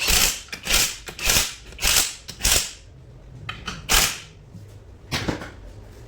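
Ratchet wrench worked in short back-and-forth strokes, a rasping burst about every half second, then two more spaced-out strokes near the end.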